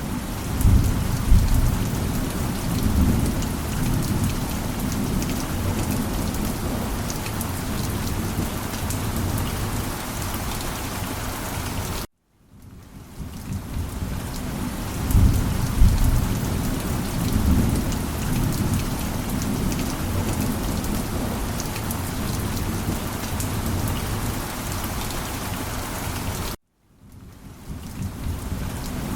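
Steady heavy rain with low rolls of thunder: a rumble right at the start, another about halfway through and one more near the end. The sound cuts out abruptly for a moment twice and fades back in each time, the seams of a looped recording.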